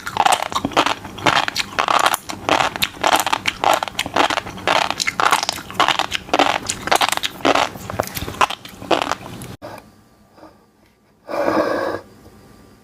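Close-miked crunchy chewing of fish roe, a rapid run of crisp pops and crackles that stops abruptly about nine and a half seconds in. A single brief noisy sound follows a couple of seconds later.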